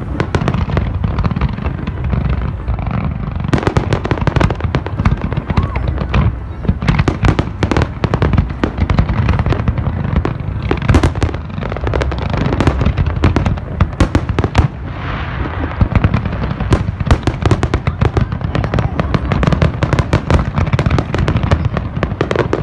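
Fireworks display: a dense, unbroken barrage of sharp bangs and crackling bursts, closely packed over a constant deep rumble.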